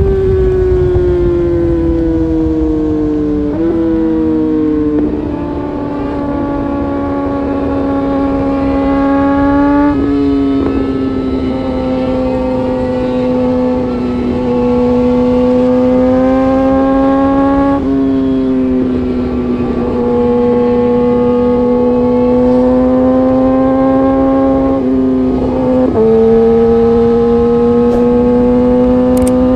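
Honda CBR600RR inline-four engine running hard at high revs, a steady high-pitched engine note. The pitch drifts slowly and drops a little in sudden steps several times.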